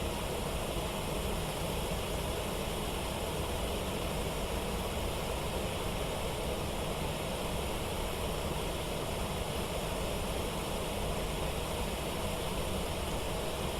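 Steady rush of water pouring over a waterfall, an even roar that does not change.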